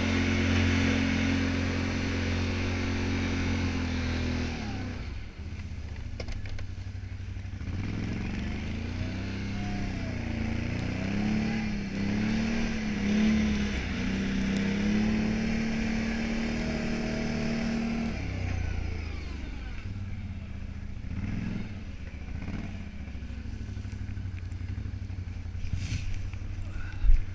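Can-Am 570 XT ATV's V-twin engine running while plowing snow. It runs steadily at first and drops about five seconds in, then rises and falls several times before holding steady. It drops back again a few seconds later, and there is a sharp knock just before the end.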